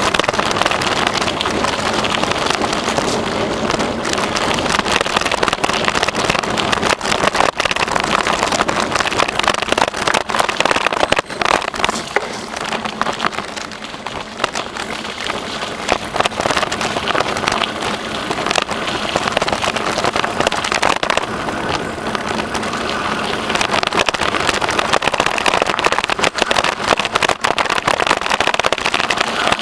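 Bicycle riding along a rough trail: the tyres roll with a constant crackle and rattle. It eases off briefly around the middle.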